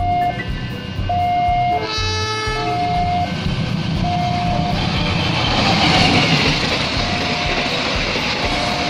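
A diesel locomotive's horn sounds once, briefly, about two seconds in, as a passenger train nears a level crossing. From about five seconds in, the noise of the train passing close by swells. Background music with held notes plays over it.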